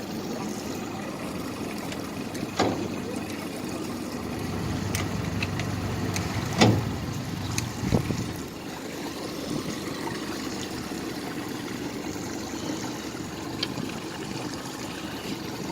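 Twin 60 hp Mercury four-stroke outboards running steadily and quietly under way, with a low hull-and-water rumble. A few sharp knocks break through, the loudest about six and a half seconds in.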